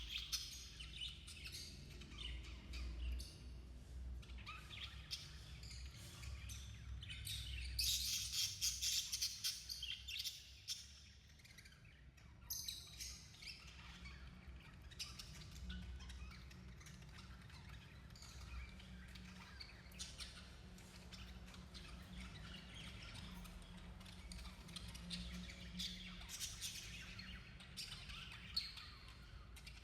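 Budgerigars chirping and twittering in a dense, continuous stream of short high calls, busiest about eight to ten seconds in.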